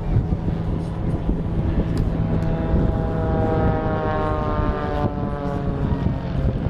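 An airplane flying past at an airshow: a steady engine drone whose pitch falls as it passes, about halfway through.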